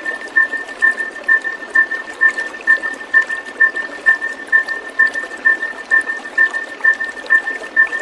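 Steady rushing, trickling water with a short, steady-pitched high note repeated evenly about twice a second over it.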